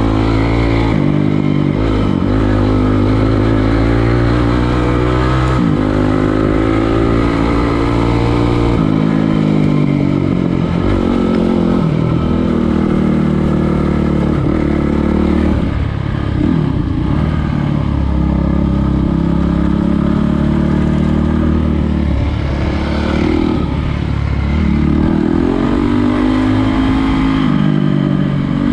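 Trail motorcycle engine running under way, its pitch repeatedly climbing and dropping and stepping as the throttle is opened and closed and gears change.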